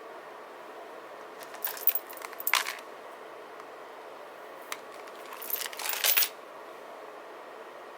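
Crisp clicking and rustling of journaling materials handled on a desk, in two short bursts with a single click between them, over a steady faint hiss.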